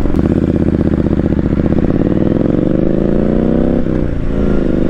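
Motorcycle engine pulling under acceleration, its pitch rising, then dropping sharply about four seconds in at a gear change before climbing again.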